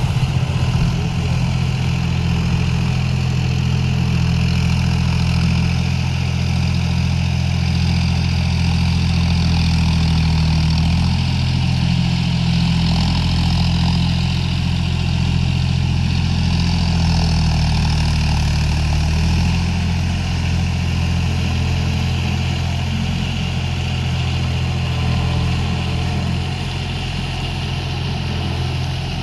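John Deere 5050D tractor's three-cylinder diesel engine running steadily, its note shifting slightly a couple of times.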